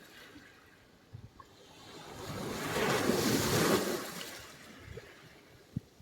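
Sea surf: one wave surging in, swelling to a rushing peak about halfway through and then washing back out. A brief faint knock comes near the end.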